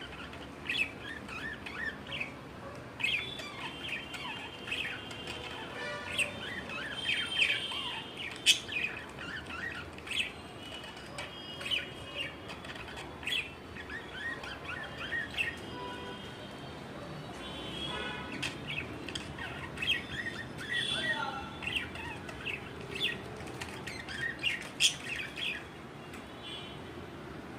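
Budgerigars chattering and warbling: a continuous run of short high chirps, with a few louder sharp calls standing out.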